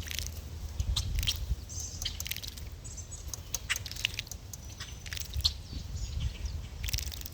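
Birds making short, scattered chirps and clicks over a steady low rumble.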